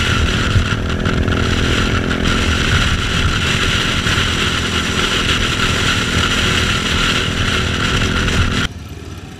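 Motorcycle engine running steadily at speed under heavy wind rush, likely a KTM Duke 690's single-cylinder engine. A little before the end it cuts off abruptly to a much quieter low engine sound.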